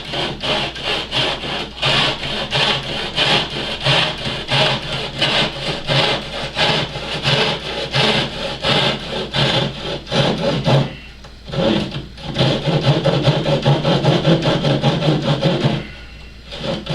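Hand saw cutting through a model aircraft's carbon-fibre-skinned fuselage: quick, even back-and-forth strokes about three a second, with two short pauses.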